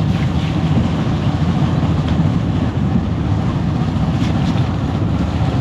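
Motorcycle on the move: the engine running mixed with wind rushing over the microphone, steady throughout.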